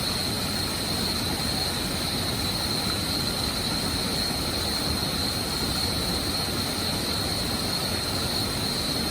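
Waterfall rushing as a steady, unbroken roar, with a steady high-pitched tone running over it.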